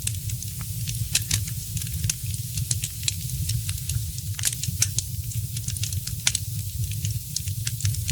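Wood fire in a fireplace crackling: frequent irregular sharp pops and snaps over a steady hiss and a low rumble.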